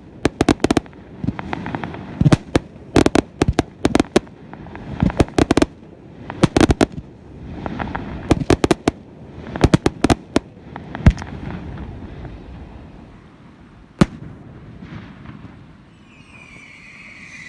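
Fireworks display: sharp bangs and crackles going off in quick clusters, thinning out in the second half to a lone bang. Near the end a high, falling tone begins.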